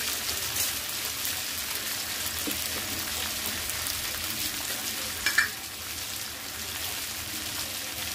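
Food frying and sizzling in hot oil in a pan while it is stirred, with a steady hiss. A brief louder clink of the spoon against the pan comes about five seconds in.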